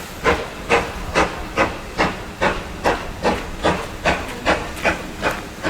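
Steam locomotive exhaust beats: an even, steady chuff about two and a half times a second, each beat a sharp hiss of steam from the chimney as the engine works slowly.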